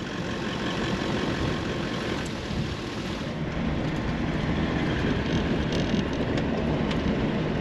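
Steady engine and road noise of a Toyota Land Cruiser driving, with a constant low rumble.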